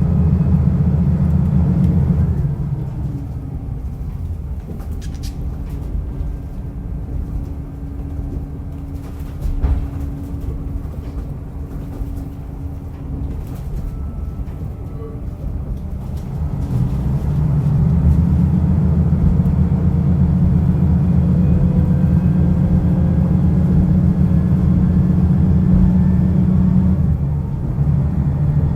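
Diesel railcar running along the line: the engine is working hard at first, drops back to a quieter hum with rail and running noise about two seconds in, then powers up loudly again about seventeen seconds in before easing off near the end.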